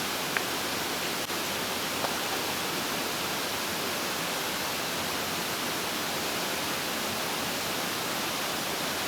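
Steady rush of a mountain stream, an even unbroken wash of water noise, with a couple of faint clicks in the first two seconds.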